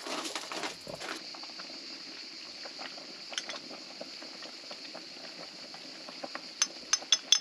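A pan of yellow plum jam at a rolling boil, thick bubbles popping and spluttering steadily; the jam is close to its setting point. A few louder sharp pops or clicks come near the end.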